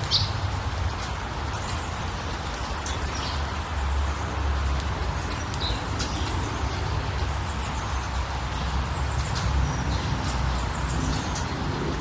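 Small birds chirping in short, scattered calls over a steady rushing background with a low rumble.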